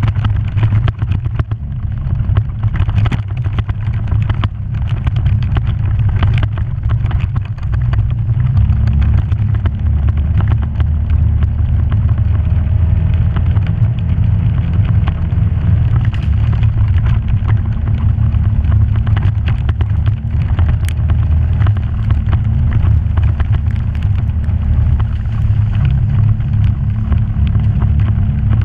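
Vehicle engine running steadily under way on a rough off-road trail, with frequent knocks and rattles over the first several seconds. The drone grows a little stronger about eight seconds in.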